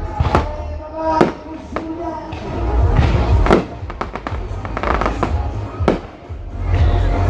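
Fireworks shells bursting: about six sharp bangs a second or so apart over a low rumble, with music playing along.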